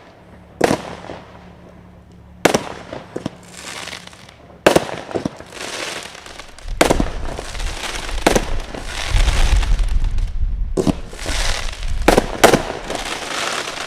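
Consumer firework cakes going off: about eight loud bangs of bursting shells, a second or two apart, with crackling in between and a low rumble through the middle stretch.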